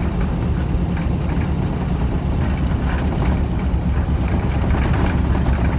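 1979 Jeep driving along, heard from inside the cab: a steady low engine and road drone, with faint high-pitched ticks now and then.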